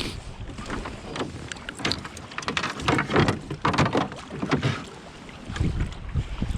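Water splashing and lapping against a canoe's hull in irregular small slaps. Wind buffets the microphone, most near the start and the end.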